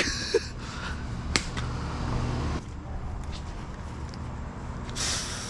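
Garden hose spray nozzle being worked: a few sharp clicks, then a short hiss of spray near the end.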